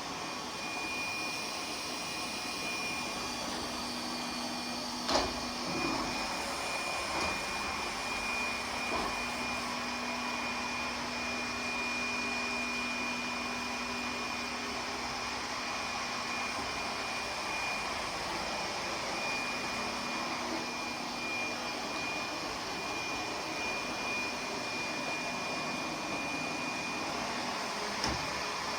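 Lefant M1 robot vacuum running steadily: a whirring suction motor with a high, steady whine and a low hum, and a sharp knock about five seconds in and another near the end.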